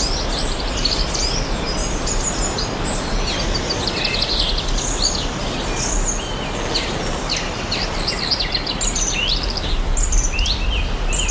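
Several birds chirping and singing over one another, many short quick calls that sweep up and down in pitch, over a steady rushing background noise.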